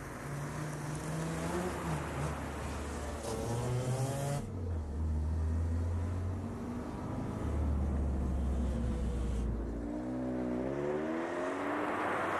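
Alfa Romeo saloon car's engine running and accelerating, its pitch rising in two runs, about three seconds in and again near the end, with steadier running between. The sound changes abruptly about four and a half and nine and a half seconds in.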